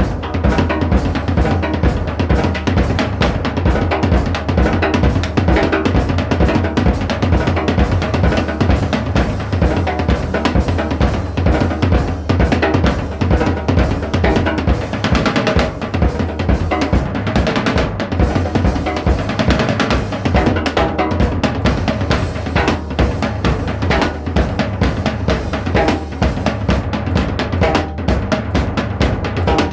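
Drum kit playing a fast, steady beat, with bass drum, snare and cymbals, as music without voice.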